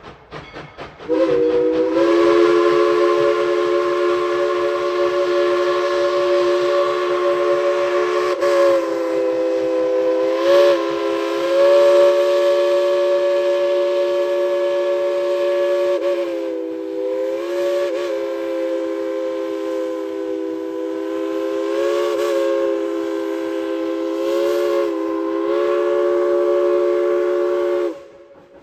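Tweetsie Railroad steam locomotive #190's newly fixed whistle blowing one long chord of several notes at once, with the pitch sagging and wavering a few times. It lasts nearly half a minute and cuts off near the end.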